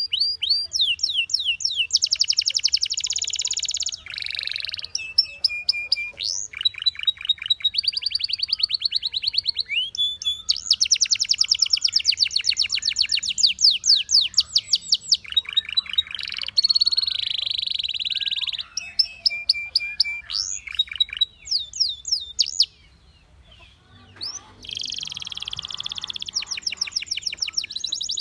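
Canary singing a long, varied song of rapid trills and repeated sweeping notes, switching to a new phrase every second or two, with a short pause about 23 seconds in.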